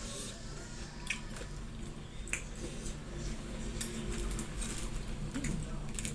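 Close-up eating sounds from a mukbang of spicy gado-gado: wet chewing and mouth smacking, with sharp clicks every second or so.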